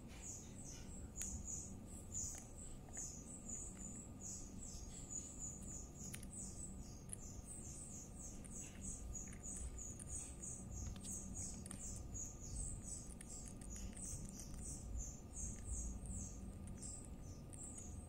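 Rapid high, thin bird chirps, several a second, each a short falling note, with a few faint ticks among them.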